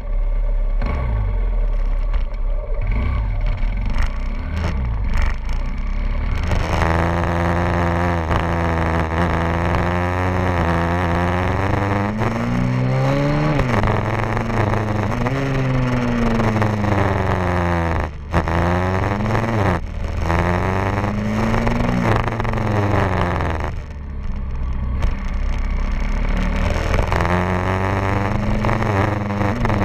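A 150 cc pit bike's single-cylinder engine being ridden: low revs at first, then revving up and falling back again and again as the bike is pushed around the track.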